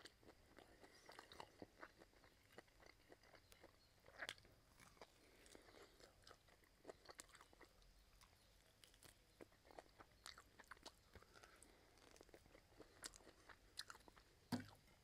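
Faint close-up chewing and biting sounds of a man eating pork ribs, gnawing meat off the bone: scattered small mouth clicks at an uneven pace.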